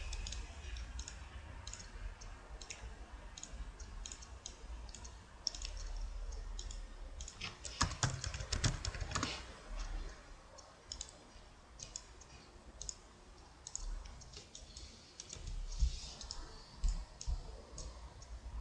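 Computer mouse and keyboard clicks, short and irregular, with a quick run of them about eight seconds in.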